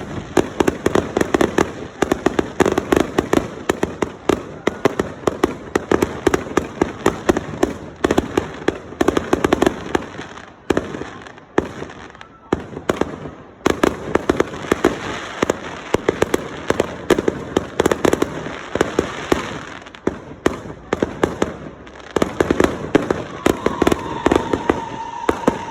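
Fireworks going off in a dense, rapid barrage of bangs and crackles, easing off briefly twice. A steady whistling tone comes in near the end.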